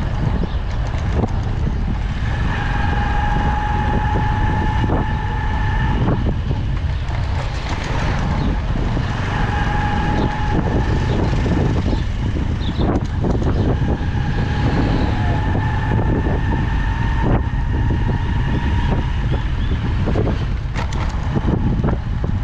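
Motorcycle riding through city traffic, heard from the bike: a heavy rumble of wind on the microphone and road noise, with a high steady whine that comes and goes several times.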